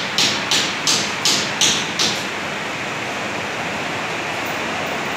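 Steady rain hiss. For the first two seconds a regular series of sharp knocks, about three a second, sounds over it, then stops.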